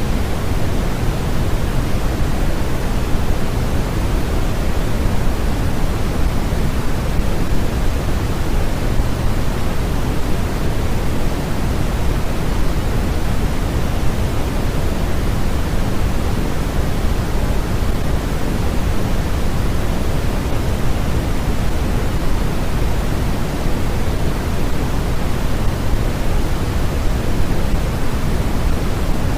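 Steady, loud electronically generated noise of the kind sold as white noise for sleep: an even, unchanging rushing hiss, heavier in the low end than the high.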